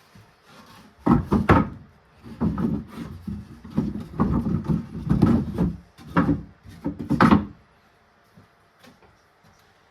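Wood knocking and scraping in a run of irregular strokes lasting about six seconds, then stopping.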